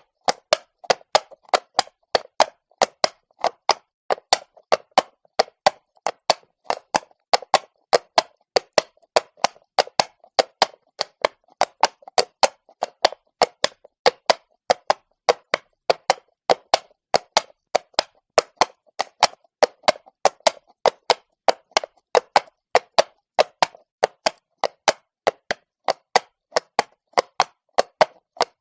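Horse hooves striking stone cobbles at a walk: a steady, even run of sharp clip-clop knocks, several a second.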